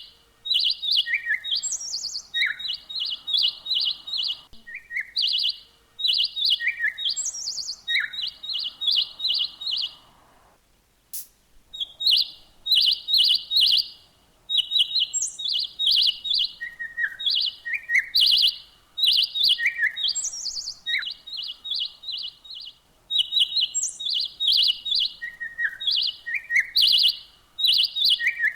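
Songbird singing: phrase after phrase of rapid high chirps, with short lower down-slurred notes between them and a brief pause about ten seconds in.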